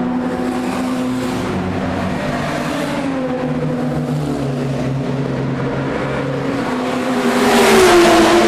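Historic racing cars' engines running at speed, several at once, their pitches shifting as they change gear. Near the end one car passes close and loud, its pitch dropping as it goes by.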